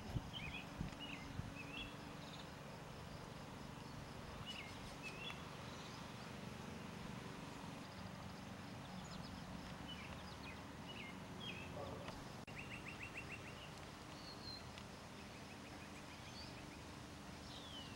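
Steady outdoor background hiss with short bird chirps now and then, and a brief rapid trill about two-thirds of the way through.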